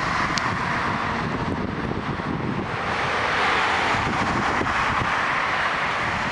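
Airbus A320 jet airliner's engines passing as a steady rushing noise that swells slightly past the middle, with wind buffeting the microphone.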